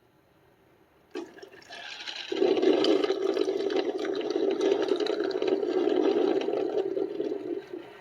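Ninja DualBrew Pro coffee maker switched on: a click about a second in, then water rushing and gurgling through the machine for about five seconds before it fades near the end. The owner says the unit is draining water out of its tank as part of a fault in which it shuts itself off right after being turned on.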